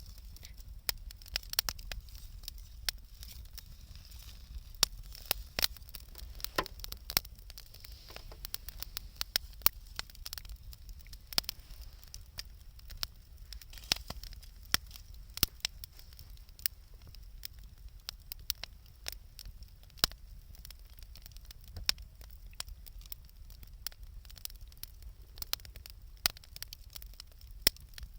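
Wood campfire crackling, with irregular sharp pops and snaps scattered throughout, a few much louder than the rest.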